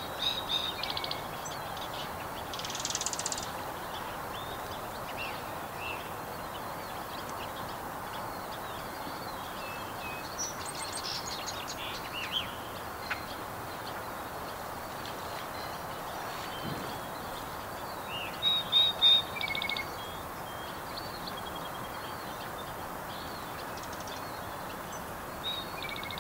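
Birds chirping in short trills and falling notes, loudest in a burst a little after halfway, over a steady rushing background noise.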